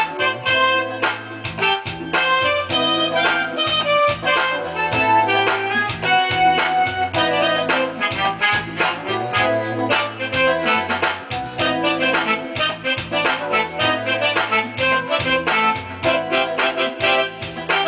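Keyboard music, piano-like in tone: a busy line of quick notes over held bass notes.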